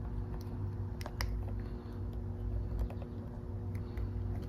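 A few light, sharp plastic clicks from handling a Posi-Tap wire connector and feeding a wire into it, over a steady low hum.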